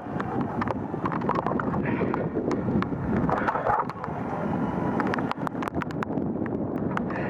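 Wind buffeting the microphone in a rumbling, uneven rush, with many scattered sharp ticks throughout.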